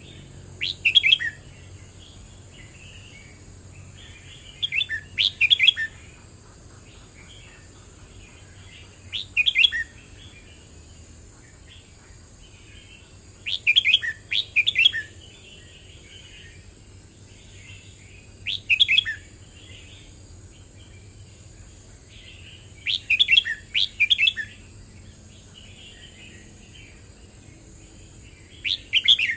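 Red-whiskered bulbul singing: seven short, bright phrases of about a second each, repeated every four to five seconds, with softer twittering notes in between.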